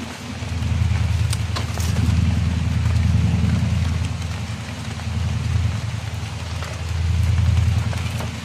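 Steady rain hiss with a low rumble that swells and fades in several waves over it, and a couple of sharp ticks about a second and a half in.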